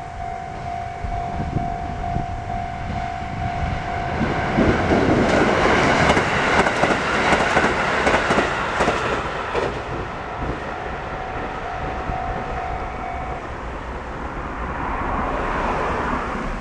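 The diesel express train 'Nukumori Hidaji' passing a level crossing, its wheels clattering over the rail joints. The passage is loudest from about four to ten seconds in, then fades. The crossing's electronic alarm rings in a steady pulsing tone before the train reaches it, and is heard faintly again as the train moves off.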